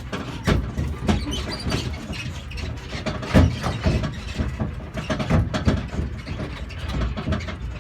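Tractor engine running as it pulls passenger trailers along a bumpy farm track, with the trailers rattling and knocking irregularly; the loudest knock comes about three and a half seconds in.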